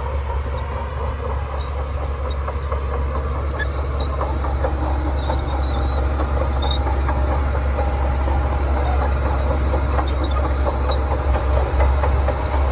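Shantui DH17C2 crawler bulldozer's diesel engine running steadily under load, a constant low rumble with a light, continuous clatter over it.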